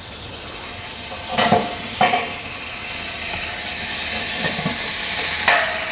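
Steady sizzling and hiss from barbecue-sauced pork ribs hanging in the hot basket of a Char-Broil propane oil-less fryer, with three short knocks, two close together early and one near the end.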